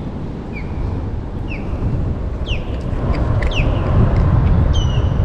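Birds chirping: a string of short, high calls, each a quick sweep in pitch, over a loud low rumble that grows toward the end.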